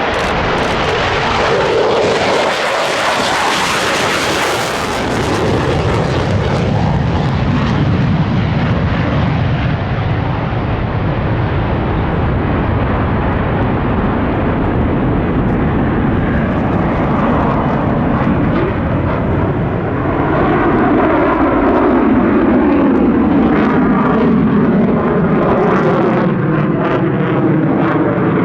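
A Royal Danish Air Force F-16 fighter's jet engine, loud and continuous through a display pass. A harsh hiss is sharpest about two to five seconds in, then fades from the top, and the sound grows duller. In the last third a wavering, sweeping tone runs through the noise as the jet moves.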